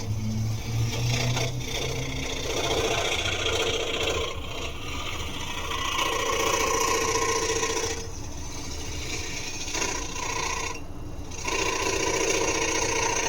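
Scroll saw running, its reciprocating blade cutting through wood with a continuous rasping buzz that dips briefly several times.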